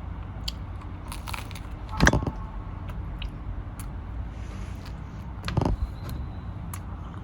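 A person eating pizza fast: biting and chewing with small crackling clicks over a steady low rumble. There is a louder knock about two seconds in and another around the middle.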